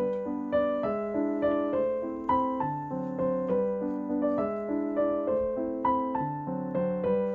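Background music: a gentle piano melody of single notes over chords, each struck note fading before the next.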